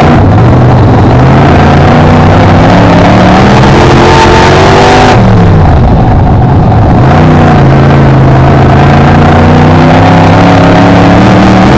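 BriSCA F1 stock car's V8 engine heard on board at racing speed, very loud. Its pitch climbs under throttle, drops sharply about five seconds in as the throttle is lifted, then climbs again and holds fairly steady.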